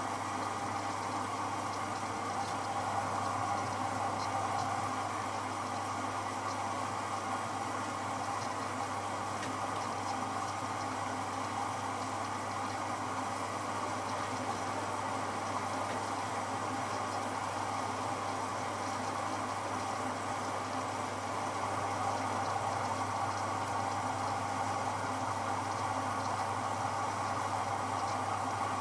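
AEG Electrolux Lavamat L74810 washing machine running steadily, with a constant low hum and an even hiss.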